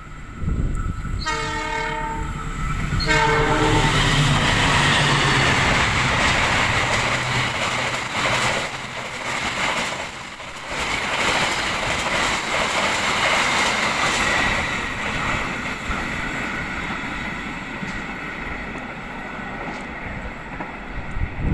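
Train locomotive air horn sounding two blasts, several tones together, followed by a train passing close by with the rumble and clatter of wheels on the rails.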